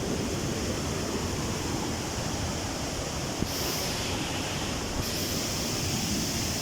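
Waterfall: a steady rush of falling water, with a small knock about three and a half seconds in.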